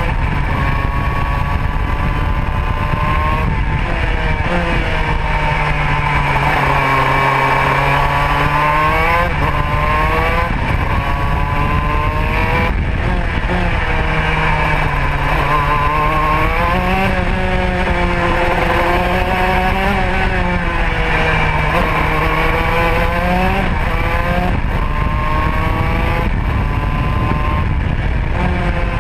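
Modena two-stroke kart engine at full racing effort, its pitch climbing again and again as it accelerates, then dropping sharply several times as it slows for corners.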